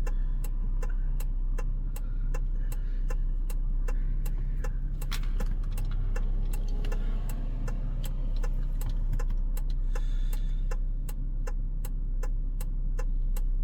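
Inside a car cabin: a steady low engine and road rumble with an even ticking about three times a second, the turn-signal indicator clicking.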